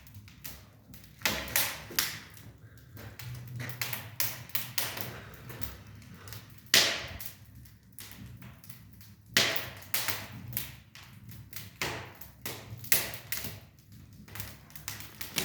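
Masonry work on a fireplace: irregular taps and sharp knocks from hand tools on brick, a few of them louder.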